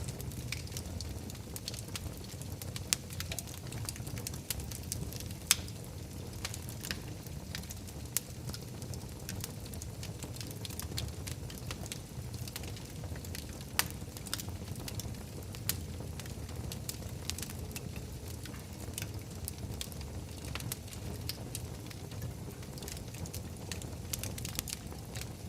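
Wood fire burning in a fireplace, crackling steadily with scattered sharp snaps and a few louder pops over a low, even rumble of the flames.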